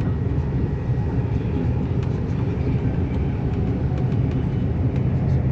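Steady low rumble of an intercity train running at speed, heard inside the passenger carriage.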